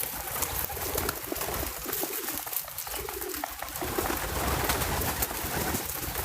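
A dove cooing in low, soft phrases, twice, with scattered light clicks and taps, likely birds or squirrels working at the feeder.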